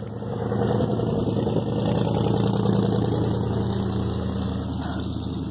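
A car's engine running close by as it drives past, growing louder for the first few seconds and then fading.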